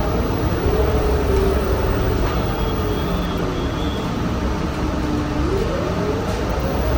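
City bus running, with a steady rumble and a drivetrain whine that sinks lower, then climbs sharply about five seconds in as the bus pulls away again.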